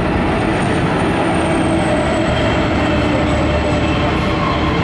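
Container freight train rolling steadily through a level crossing, its wagons rumbling past, with a thin high wheel squeal that drops slightly in pitch in the first couple of seconds.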